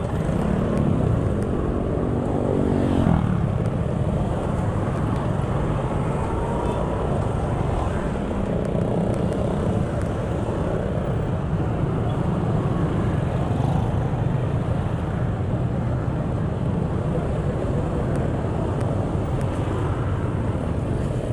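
Steady engine and road noise from a moving vehicle in traffic, with a falling engine tone about one to three seconds in, as of an engine easing off or passing.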